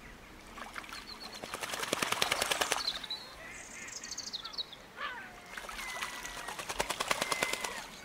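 Wild birds calling: two fast rattling trills, each lasting a second or two, about a second and a half in and again near the end, with short high chirps and a thin whistle between them.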